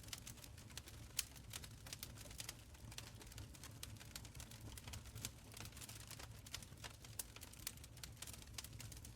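Wood fire crackling in an open fireplace: a steady run of small irregular pops and snaps over a low rumble of burning, with a sharper pop about a second in.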